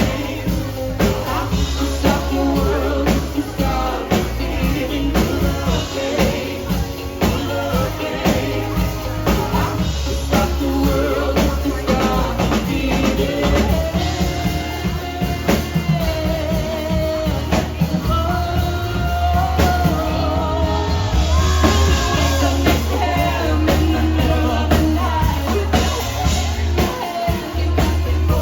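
Live band playing a song: a singer's melody over a drum kit beat and steady low bass notes.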